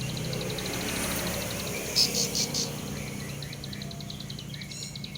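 Young cemblek sawah songbird giving three sharp, loud chirps about two seconds in, over a steady, rapid high ticking trill.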